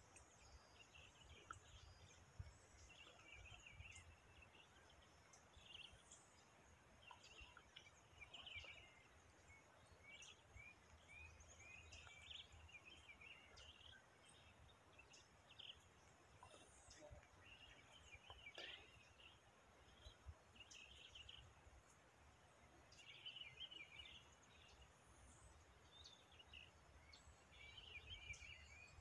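Near-silent outdoor quiet with faint, scattered bird calls: short chirps every second or two, some sliding higher calls, over a low rumble.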